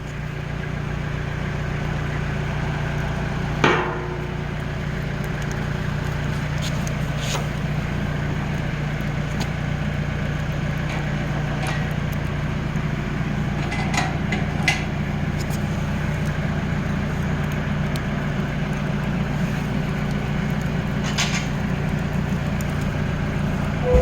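A downdraft wood-burning stove running with a steady low hum, with a few short sharp cracks scattered through.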